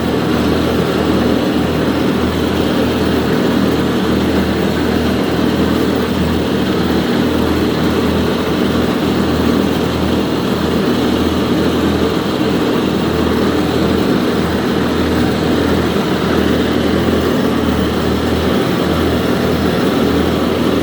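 1941 Farmall A tractor's four-cylinder engine running steadily at a constant speed, with a low, even pulsing throb.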